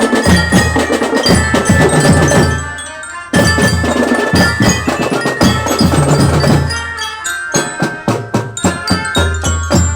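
School drum band playing: marching drums beating under ringing bell-lyra (marching glockenspiel) notes. The sound drops briefly about three seconds in before the full band comes back, and the hits grow sparser and more clipped near the end.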